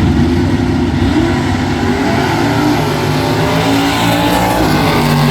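Drag-racing car running at full throttle down the strip, its engine note climbing and stepping in pitch as it accelerates.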